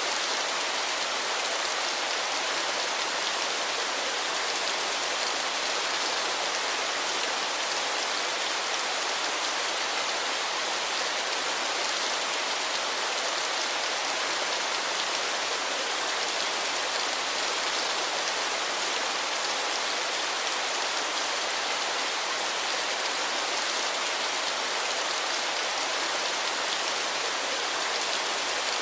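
Waterfall: a steady, even hiss of falling water with very little low rumble.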